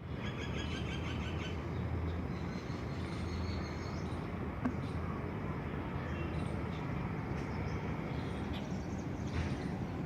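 Outdoor ambience: a steady low rumble with faint, scattered bird chirps, busiest about the first second and a half.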